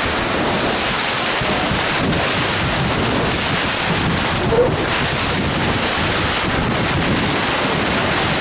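Wind buffeting the microphone over water rushing along the hull of a boat under way: a loud, steady rush of noise.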